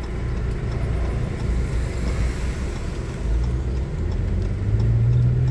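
Car driving, heard from inside the cabin: a steady low road and engine rumble, with a low engine hum swelling near the end.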